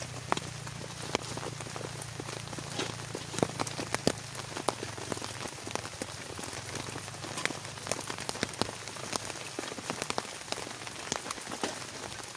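Heavy rain falling steadily, with many individual drops landing in sharp, irregular ticks on a surface close by.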